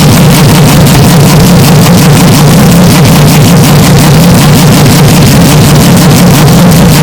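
Race car engine running steadily, boosted so loud that it is heavily clipped and distorted. It holds one steady note with no rise or fall of a pass.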